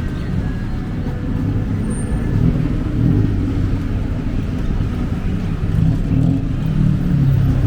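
Road traffic: motor vehicles running past with a steady low engine rumble.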